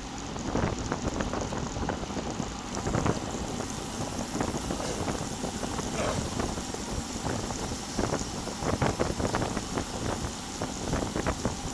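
Wind buffeting the microphone of a bike-mounted action camera on a road bike ride, in uneven gusts over the hiss and rumble of riding.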